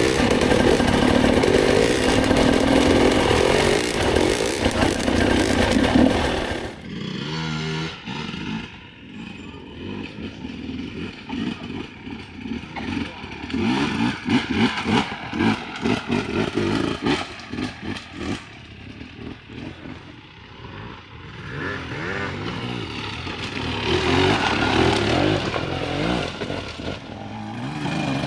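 Dirt bike engine running hard, loud and steady. About seven seconds in it cuts abruptly to quieter, uneven bursts of throttle mixed with clattering, then builds up loud again near the end.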